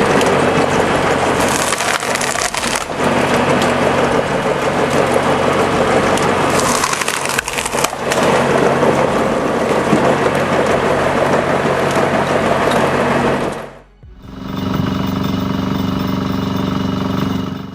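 Powered log splitter forcing through logs: wood cracking and crushing over the steady hum of its engine. About fourteen seconds in it cuts off, and a different machine runs steadily with an even drone.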